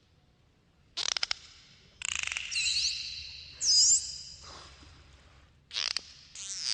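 Dolphins whistling and clicking: a rapid train of clicks about a second in and again near the end, with high, looping whistles that rise and fall between them.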